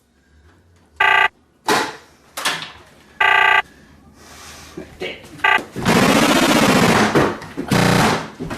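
Edited voice audio: short, abruptly cut bursts of a held voice sound, then, about six seconds in, a loud stretch of the voice bent up and down in pitch and distorted.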